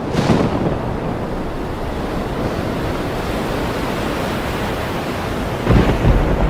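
Ocean surf rushing steadily, with one wave crashing in the first second. Near the end a deep rumble of thunder rolls in.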